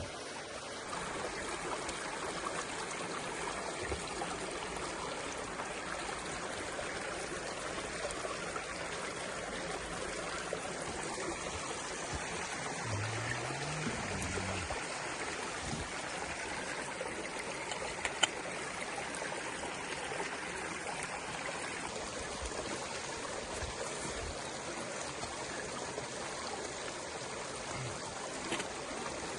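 Stream water flowing steadily, with a brief low buzz about halfway through and a single sharp click a little later.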